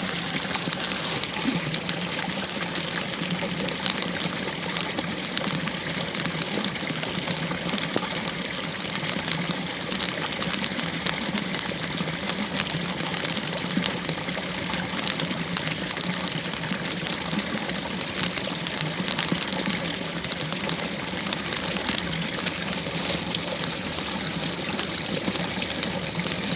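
Steady rush of water in a ditch, with the fine patter of rain.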